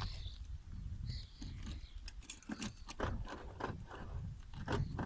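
Irregular crunches and clicks while a car is locked by hand with its key at the driver's door, over a steady low rumble of wind on the microphone.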